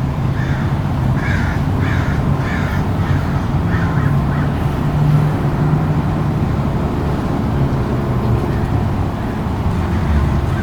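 A crow cawing, a quick run of about six caws in the first half, over a steady low rumble.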